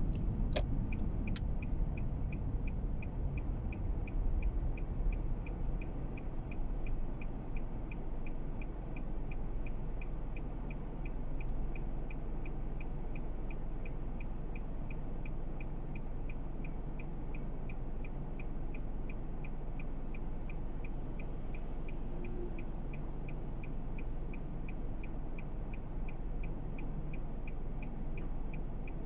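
Car turn-signal indicator ticking at an even rate, about two to three ticks a second, for a right turn, over the low rumble of the car running slowly. The rumble eases off over the first several seconds, then stays steady.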